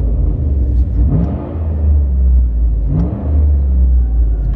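Vehicle engine with a loud aftermarket exhaust idling with a deep rumble and revved in three short blips. The exhaust is being revved to check it for drone.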